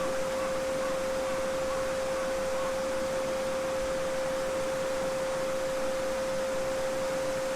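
A steady 528 Hz pure sine tone (the solfeggio frequency) held without change over the continuous babbling of a small brook.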